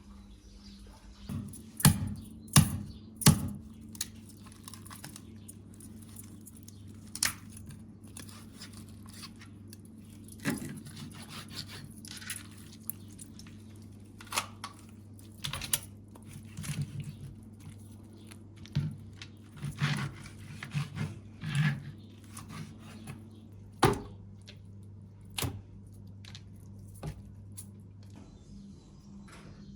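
Irregular knocks, clicks and brief rustles of things being handled in a small room, over a steady low hum that cuts off near the end.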